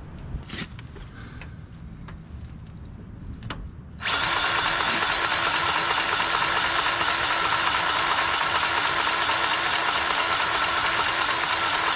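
A handheld electric power tool's motor starts abruptly about four seconds in and runs steadily at a loud level, with a fast, even rhythmic ticking. A few light clicks and taps come before it.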